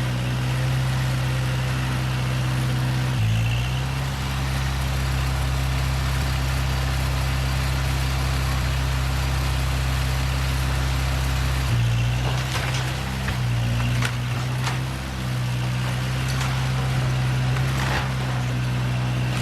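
Heavy machinery engine running steadily, its pitch shifting about three seconds in and again about twelve seconds in. From about the twelfth second, sharp knocks and cracks come through.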